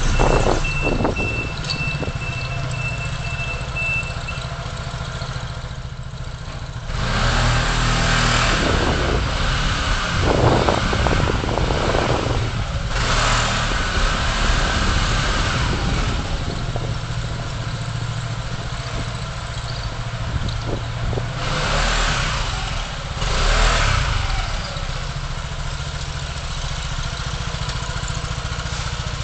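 City traffic and engine rumble picked up by a car's dashcam while driving: a steady low drone, with louder swells as other vehicles pass about seven, ten, thirteen, twenty-two and twenty-four seconds in. A thin steady tone sounds over the first few seconds.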